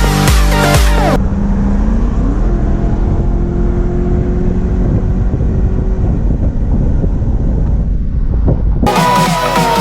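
A car engine running with a deep rumble, its pitch rising about two seconds in and then holding steady. Electronic dance music plays briefly at the start and comes back near the end.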